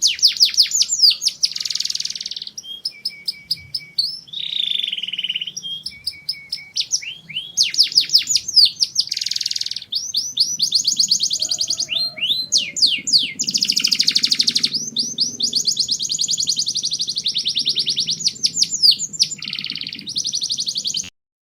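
Domestic canary singing: fast trills of rapidly repeated sweeping notes alternating with buzzy rolls, cutting off abruptly near the end.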